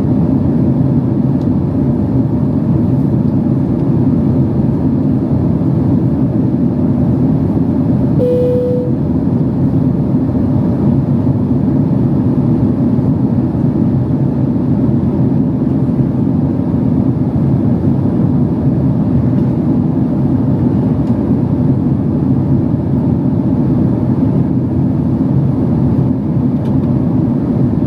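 Steady low cabin rumble of a Boeing 767-300 airliner in flight: engine and airflow noise. A single short tone sounds about eight seconds in.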